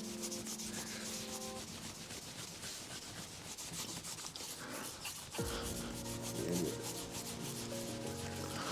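A microfibre strip with Autosol being pulled quickly back and forth around a steel LS crankshaft journal, making a fast, repeated rubbing: the journal's surface rust being polished off.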